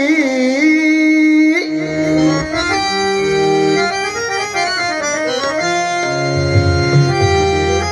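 A male bhajan singer's wavering, ornamented held note ends about two seconds in. A harmonium then plays the melody alone in steady held notes that step up and down in pitch.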